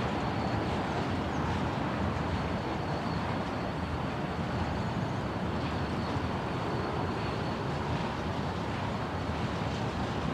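Autorack freight cars rolling past, a steady rumble of steel wheels on rail.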